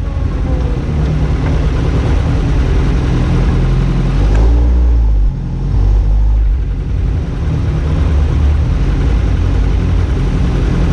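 BAC Mono's mid-mounted four-cylinder engine running at low speed while the car is driven slowly and parked, with a brief rise in revs about four seconds in that drops off sharply a second later.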